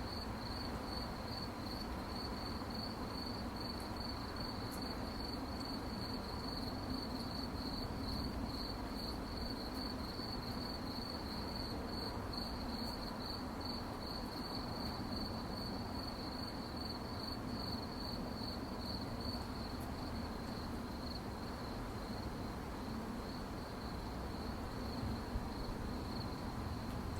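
Crickets chirping in a fast, even pulsing trill at one high pitch, growing fainter over the last several seconds, over a steady low background rumble.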